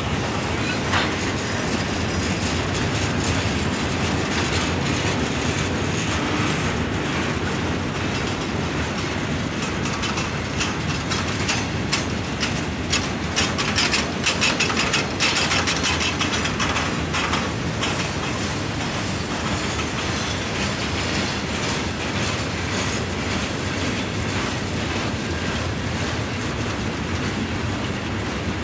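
Railroad cars rolling past, a steady rumble with the wheels clicking over rail joints, the clatter heaviest about halfway through.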